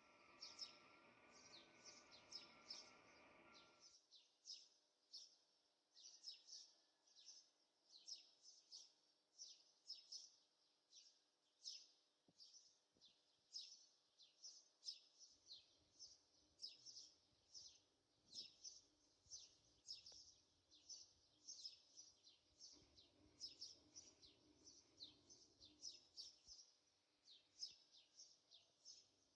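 A small bird chirping over and over, faint, short high chirps about two a second, with a low steady hum beneath.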